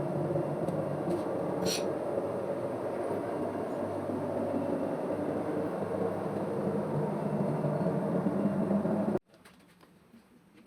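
A steady, low mechanical running noise that stops abruptly about nine seconds in.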